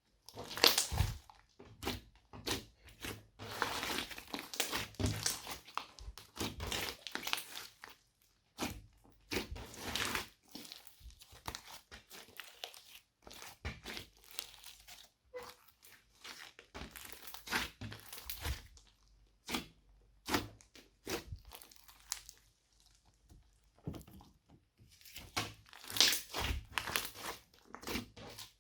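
Slime being squished, stretched and poked by hand: a dense, irregular run of sticky crackles, clicks and pops, with a few short pauses.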